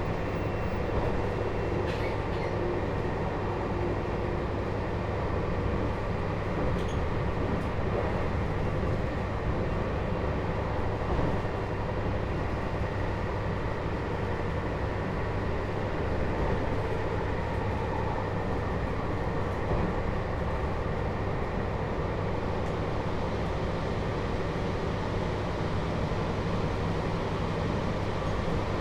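Inside a JR Hokkaido 721-series electric train motor car with a Toshiba GTO inverter, running at a steady speed: an even rumble of wheels, motors and car body, with no rising or falling whine from the drive.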